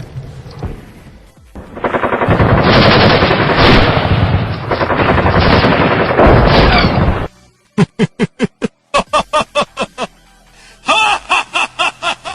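Machine-gun and explosion sound effects of a mock air battle: a loud, dense roar for about five seconds that cuts off suddenly, then rapid, evenly spaced shots, and near the end a quicker volley with a ringing edge.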